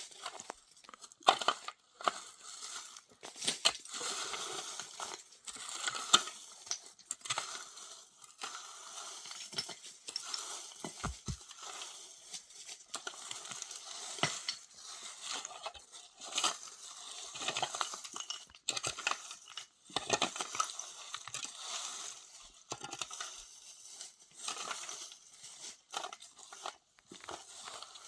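Irregular crinkling, crunching and clinking: objects being handled and worked by hand, with many short sharp clicks.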